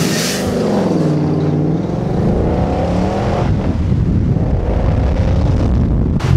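Car engine under hard acceleration, heard from inside the moving car. Its pitch dips, then climbs steadily for about two seconds, and breaks off about three and a half seconds in into a rougher rumble mixed with wind and road noise.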